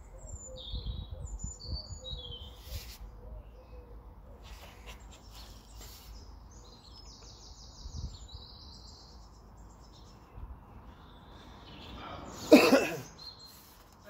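Birds chirping and calling, with a short, loud sudden noise near the end.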